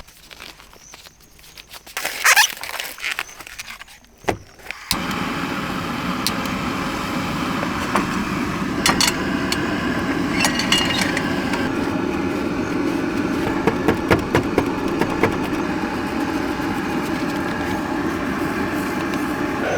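A vehicle runs steadily from about five seconds in, starting abruptly, with scattered clicks and rattles over it. Before that, only quieter scattered clicks and handling sounds.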